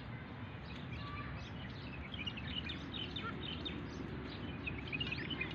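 Small birds chirping and twittering, many short high calls in quick succession, over a steady low outdoor background rumble.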